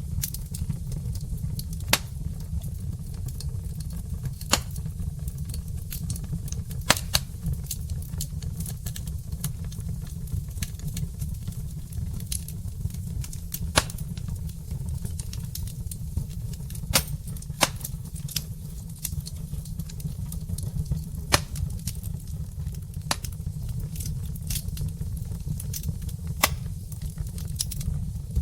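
Wood fire burning in a fireplace: logs crackling with sharp, irregular pops, the loudest every second or two, over a steady low rumble.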